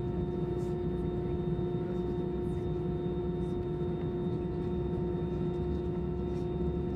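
Cabin noise of an Airbus A320 taxiing: a steady engine hum with one constant tone over a low rumble, the engines at taxi idle.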